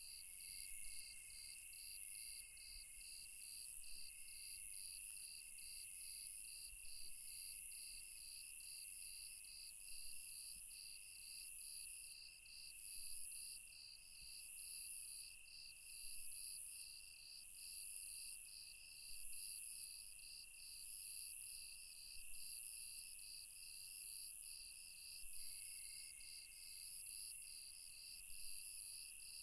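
Night insect chorus: crickets chirping in an even pulse about twice a second over a steady high trill, with a shriller buzz on top that swells and fades every couple of seconds.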